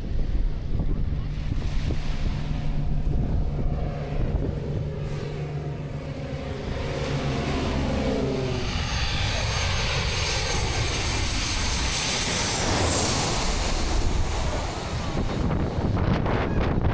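Airplane passing low overhead. Its engine hum drops in pitch as it goes by, then gives way to a louder rush with a high whine that peaks about thirteen seconds in and eases off.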